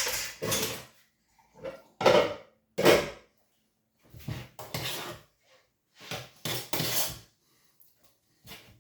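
Pots, dishes and cutlery clattering: a series of separate knocks and scrapes, with short gaps between them.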